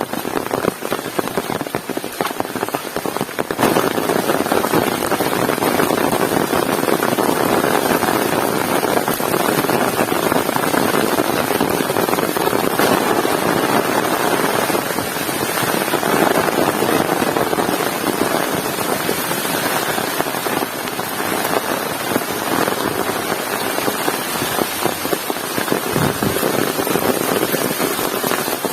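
Heavy rain pouring down steadily, a dense hiss of countless drops striking the ground, thickening into a fuller downpour about three and a half seconds in.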